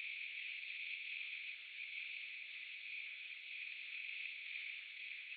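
A steady, faint hiss with no clicks or pauses.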